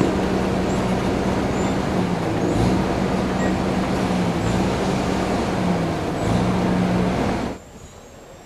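An engine running loudly with a steady drone that dips in pitch a few times, cutting off abruptly near the end.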